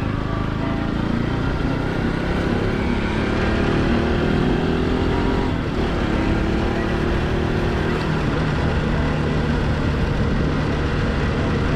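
Motorcycle engine running under way, its note rising and falling with the throttle and dipping briefly about halfway through. Its silencer has lost its baffle and cracked on rough riding, the rider says, which leaves the exhaust louder and rougher.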